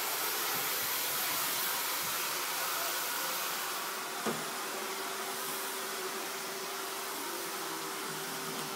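Vacuum cleaner motor running steadily, a continuous even whoosh, with one short knock about four seconds in.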